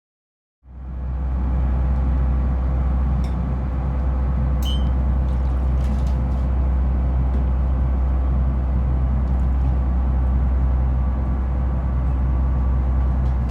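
A boat's engine running steadily: a deep, even drone with a few light clicks, cutting in abruptly just after the start.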